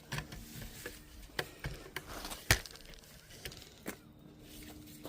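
Scattered clicks and knocks of hand tools and loose parts being handled during dismantling work, with one sharper knock about two and a half seconds in.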